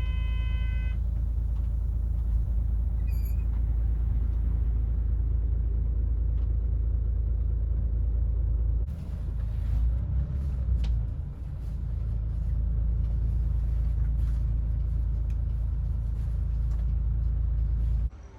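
Heavy diesel vehicle engine running with a steady low rumble, with a short electronic chime right at the start and a rougher, uneven stretch of noise around the middle. The sound drops away suddenly near the end.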